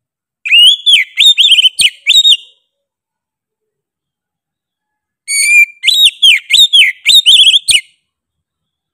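Oriental magpie-robin singing: two loud phrases of quick, sliding whistled notes, each about two seconds long, the second starting about five seconds in.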